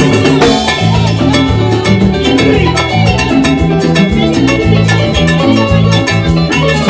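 A band playing Latin dance music, with a bass line moving under steady drum and percussion hits.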